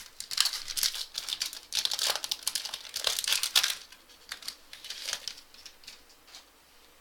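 Football card pack wrapper crinkling and tearing as the pack is torn open by hand, busiest in the first four seconds, then dying away.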